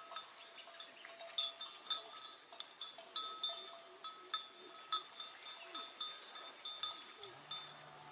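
Small bells clinking and ringing in an irregular rhythm, several strikes a second with short ringing tones. Near the end a low, steady tone comes in and holds for a couple of seconds.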